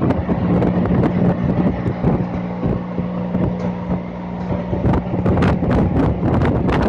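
Heavy rain and wind buffeting the phone's microphone, a dense steady rush with many short crackles and pops, over a steady low hum.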